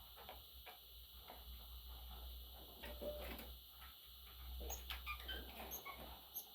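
Budgerigar making faint, short chirps, with a cluster of brief high notes near the end, over light clicking and scratching.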